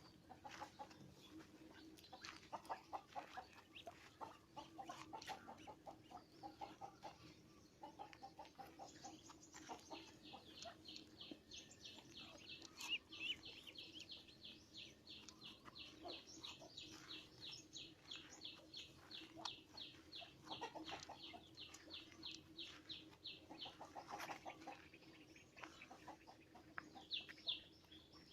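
Birds calling faintly: short clucking notes early on give way, about ten seconds in, to a long run of quick, evenly repeated high chirps, several a second, lasting about fourteen seconds, with a few more chirps near the end.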